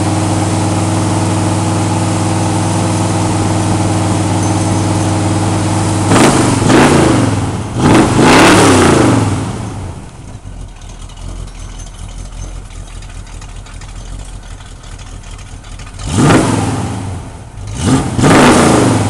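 Chevrolet Nova's engine idling steadily, heard at the tailpipe. It is revved twice about six and eight seconds in, settles to a quieter idle, and is revved twice more near the end.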